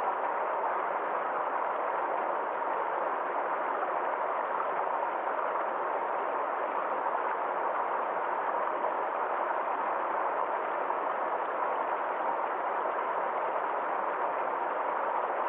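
Forest stream flowing over a small waterfall: a steady, even rush of water.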